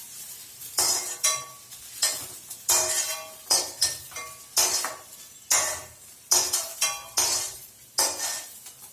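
A metal spoon scraping and clinking against a pan and bowl, about once a second, as fried okra is scooped out of the pan into a bowl. Each stroke is a short scrape with a brief metallic ring.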